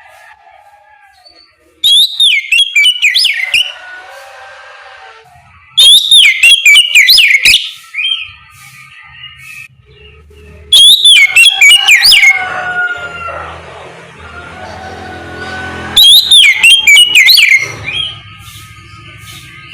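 Oriental magpie-robin (kacer) singing: four loud bursts of rapid, sweeping whistled phrases, each lasting about two seconds and a few seconds apart, with quieter twittering between.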